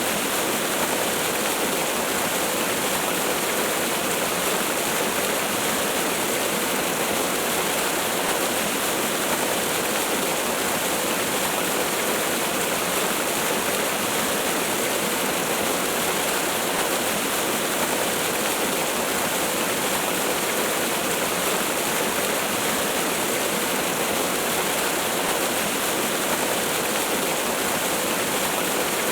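Waterfall: a steady, unchanging rush of falling water with no deep rumble.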